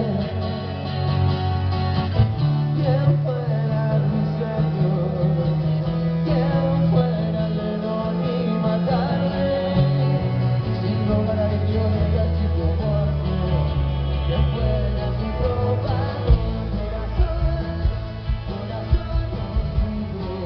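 Rock band playing live at a sound check: guitars and bass with a singing voice.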